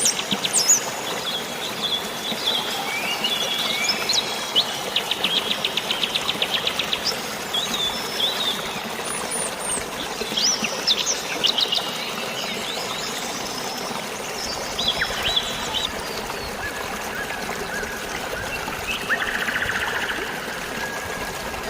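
Several birds chirping and calling, with a fast trill of rapid notes about a quarter of the way in, over a steady hiss of drizzling rain and flowing water.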